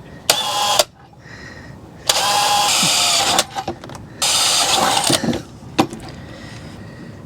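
A power tool run in three short bursts: about half a second, then a longer run of over a second, then about a second more.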